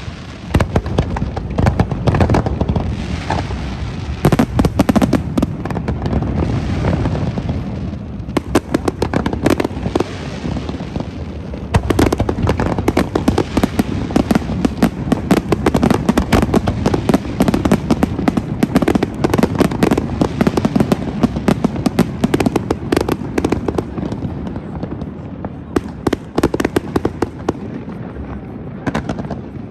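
Aerial fireworks display: a continuous barrage of rapid bangs and crackles, thinning out somewhat near the end.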